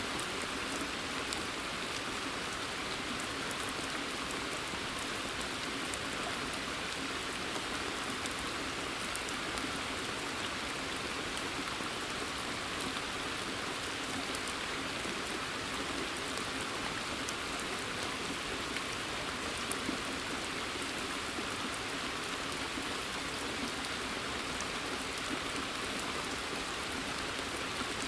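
Steady rain falling in a forest: an even hiss with scattered individual drops ticking.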